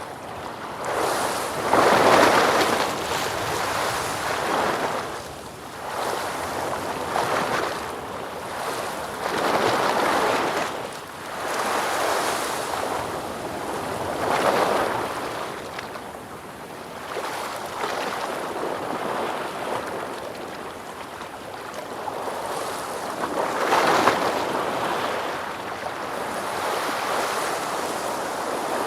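Ocean waves breaking and washing ashore in repeated surges a few seconds apart, each rising and then falling away. The biggest breaks come about two seconds in and again near the end.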